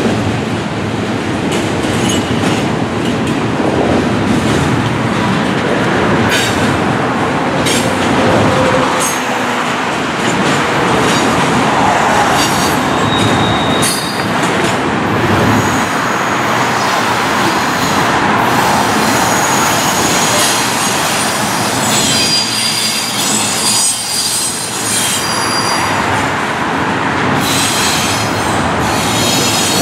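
Norfolk Southern double-stack intermodal freight train rolling past, its container-laden well cars rumbling and clattering steadily on the rails. High-pitched metallic wheel squeal comes and goes, strongest in the second half.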